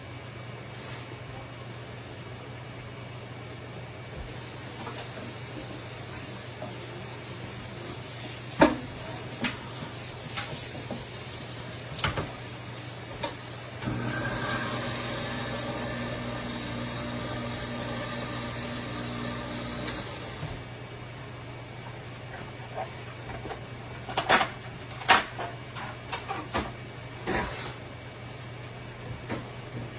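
Kitchen tap running for about sixteen seconds while dishes are rinsed, with knocks and clinks of dishes and utensils before and after it, the loudest group near the end. A steady low hum runs underneath.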